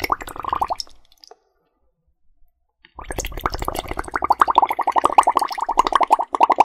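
Air blown through a drinking straw into water, making a fast, even run of gurgling bubbles. It stops about a second in and starts again about two seconds later, louder.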